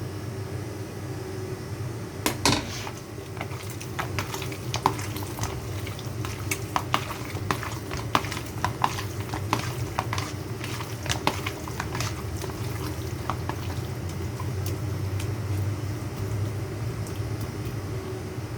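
Kitchen utensils clinking and knocking against dishes while food is mixed and handled: scattered sharp clicks, the loudest about two and a half seconds in, most of them in the first two-thirds. A steady low hum runs underneath.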